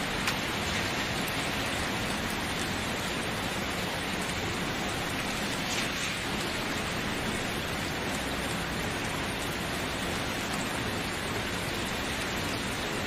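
Steady rainfall, an even hiss of rain falling on a surface, with a few faint individual drop ticks.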